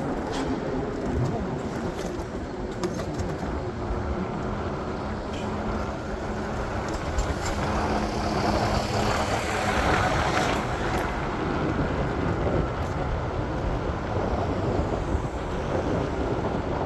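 City street traffic noise, with a steady engine hum for several seconds and a vehicle passing close about halfway through.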